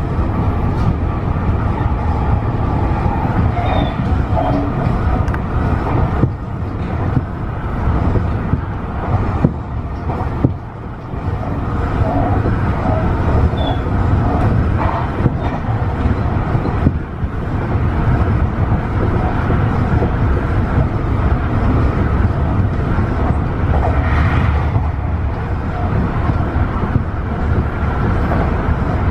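Tobu 50090-series electric train running along the line, a steady rumble of wheels and motors heard from inside the front car. The noise dips briefly about ten seconds in.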